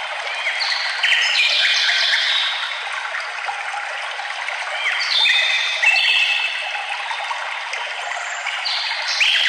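Songbirds singing over the steady rush of a forest stream. Three song phrases of clear stepped notes come about four seconds apart.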